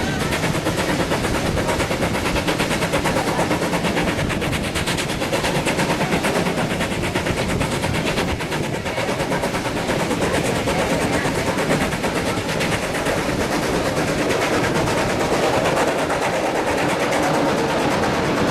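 Steam train in motion behind QR BB18¼ class locomotive 1079: a steady, rapid clatter of fast, even beats with no let-up.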